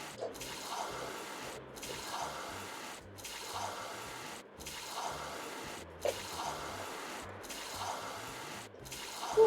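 Scratchy hiss of colouring on paper, broken by short pauses about every second and a half.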